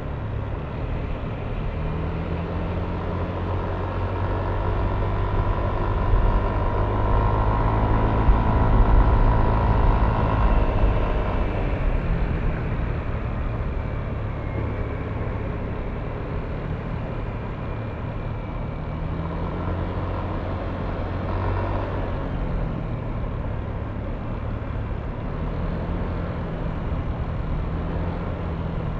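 Yamaha Aerox V3 scooter's single-cylinder 155 cc engine running under way, with road noise. It swells louder about a third of the way through and then settles back to a steady level.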